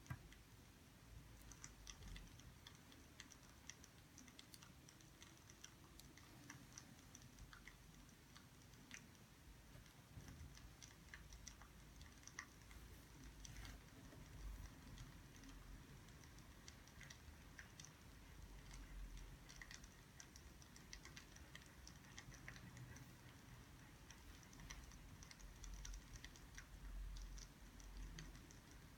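Faint crackling of burning firewood: small irregular pops and ticks scattered steadily throughout.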